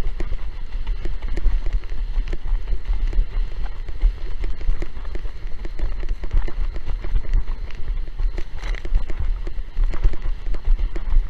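Strong gusting wind buffeting the microphone, with rapid, irregular splashes and slaps of choppy water.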